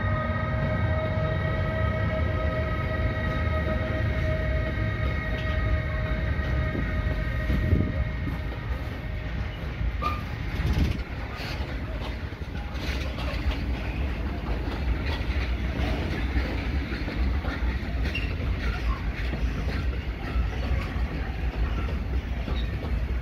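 Freight train of open coal wagons rolling past behind an E6ACTadb electric locomotive: a steady rumble with rail clatter. For the first ten seconds a steady high whine of several pitches sounds over it and then fades away.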